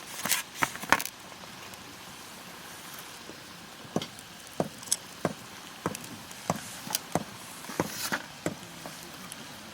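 Wood fire in a campfire stand crackling: scattered sharp pops, a quick cluster of them at the start, then about a dozen single pops over the last five or six seconds.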